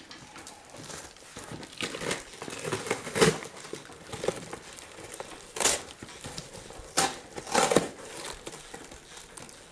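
Irregular scraping and rustling of hand work on tractor parts, broken by several sharp knocks of metal against metal.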